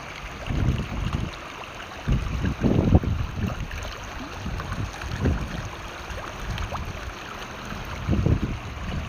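Mountain river rushing in a steady, even hiss of water, with gusts of wind buffeting the microphone in irregular low rumbles, strongest about two to three seconds in and again near the end.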